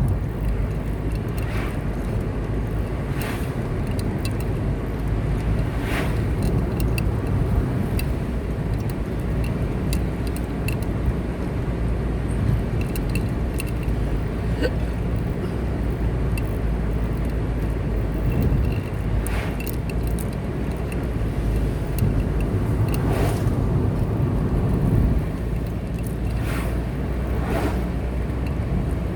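Car driving at a steady speed: a constant low rumble of engine and tyre noise, with a few brief swishes scattered through it.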